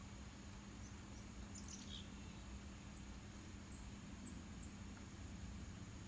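Faint, short, high songbird chirps a few times, over a steady low rumble and a thin steady high hum.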